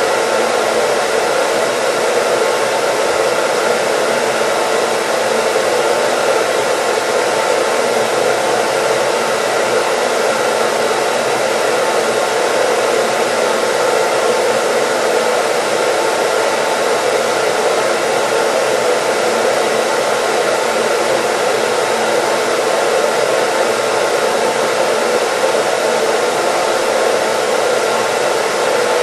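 Hair dryer running steadily: a constant rush of blown air with a faint motor hum underneath, unchanging throughout.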